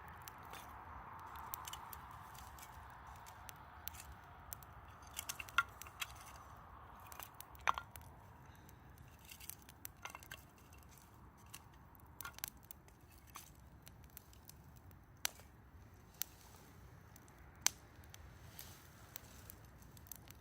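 Wood fire crackling: irregular sharp pops and snaps, with a soft hiss that fades over the first few seconds.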